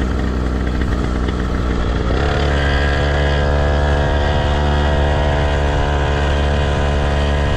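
Motocross motorcycle engine running, rising quickly in pitch about two seconds in and then holding steady at the higher revs.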